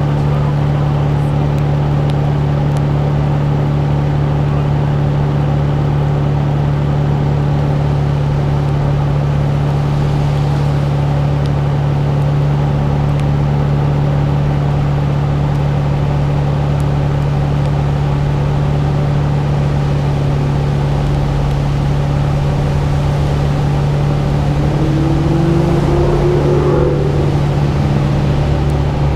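Nissan Skyline R32 GT-R's twin-turbo RB26DETT straight-six running at steady revs, heard close up from the hood. A brief rising whine comes in near the end.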